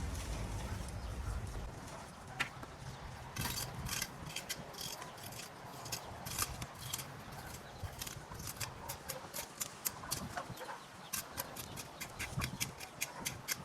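A low rumble for the first second or two, then an irregular run of sharp clicks and knocks, several a second.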